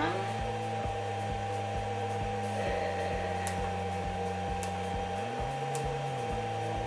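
Steady electrical and motor hum with a few faint clicks; the pitch of the hum shifts slightly about five seconds in.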